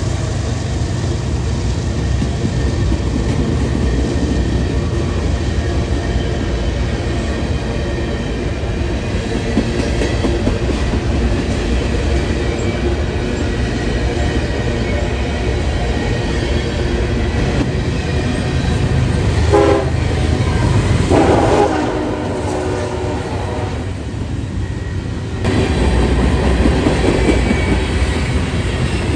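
A train passing with a steady low rumble of wheels and cars on the rails. Its horn sounds about two-thirds of the way through: a brief toot, then a longer blast of about a second.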